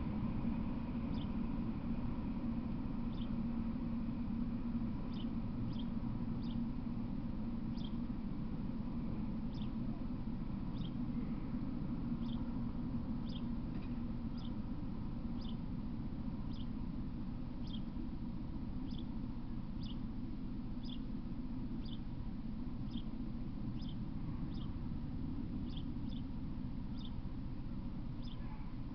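Low rumble of a freight train that has just passed, easing off over the first ten seconds or so and then holding as a steady low rumble. Over it, short high chirps come about once a second, like a small bird calling.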